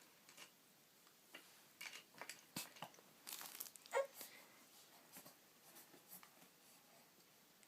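Near silence with faint scattered clicks and rustles, and a brief squeak about four seconds in.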